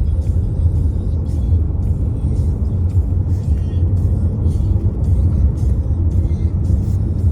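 Steady low rumble of a car on the move, with music playing over it.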